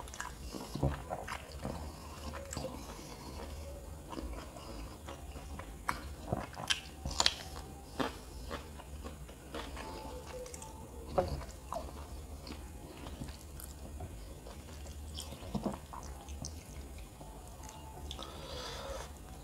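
Close-miked chewing of a mouthful of kottu roti, with irregular sharp smacks and clicks of the mouth and of fingers working the food, over a steady low hum.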